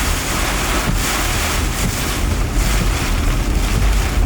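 Strong storm wind buffeting the microphone: a loud, steady rush of noise with low, fluttering rumble.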